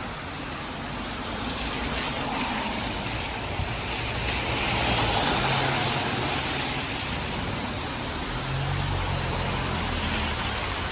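A road vehicle passing on a wet road: tyre and road noise swells about five seconds in and fades, then a low engine hum comes in near the end.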